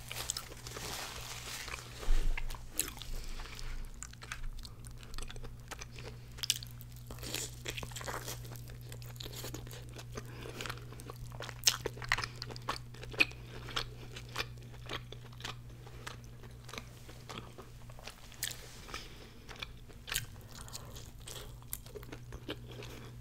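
Close-miked chewing of crispy fried birria tacos: repeated crunching of the fried tortilla and wet chewing, with the sharpest bite about two seconds in. A steady low hum runs underneath.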